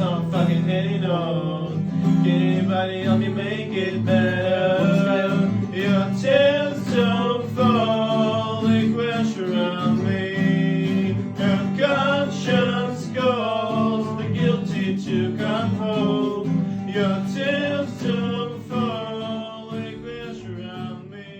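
A man singing a sustained melodic line over acoustic guitar accompaniment.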